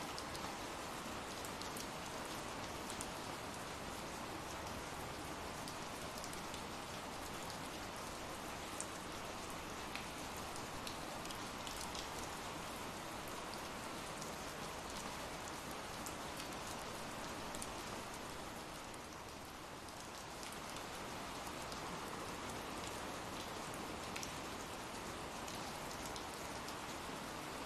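Steady rain falling, a continuous hiss with scattered sharper drop ticks; it eases slightly about two-thirds of the way through.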